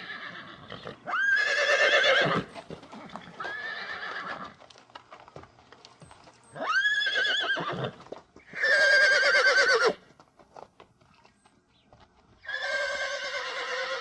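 Horse whinnying: about five separate neighs, each rising sharply at the start and then wavering as it falls away, with short pauses between them.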